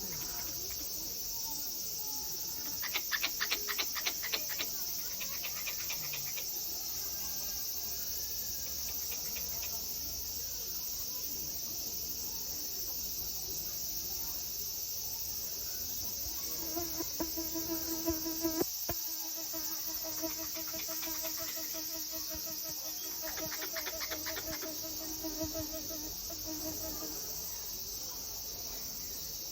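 A squirrel calling: short runs of rapid clicking chips a few seconds in and again near the end, and a low, fast-pulsing call lasting about ten seconds in the second half. A steady high chorus of crickets runs underneath.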